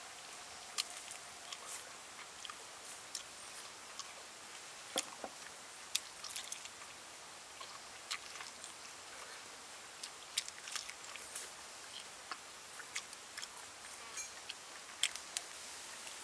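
A person chewing and biting into crispy deep-fried chicken, with sharp crunches and mouth clicks at irregular intervals.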